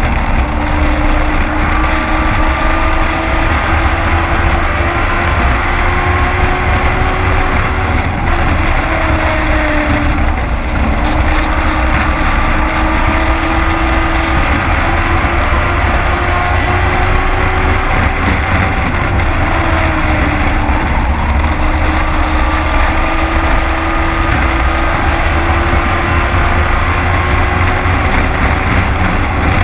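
Race truck engine running at high revs, heard from inside the cab over heavy rumble and road and wind noise. The engine pitch dips and then climbs back several times.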